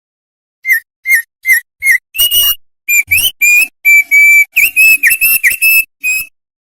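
Opior songbird singing: four short whistled notes, then a fast run of longer, clear whistled notes that stops abruptly about six seconds in.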